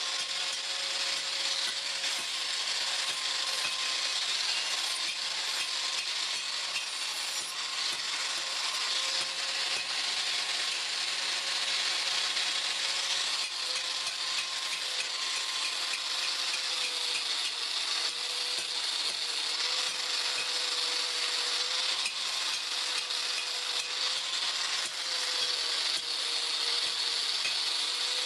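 A machine running steadily, with a constant high hiss and a whine that wavers slightly in pitch.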